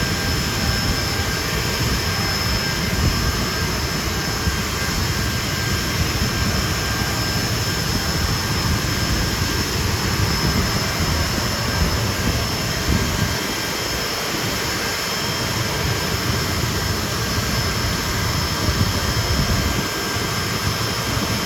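Hawker Siddeley Nimrod's jet engines running steadily: a continuous rumble with a high, steady whine over it.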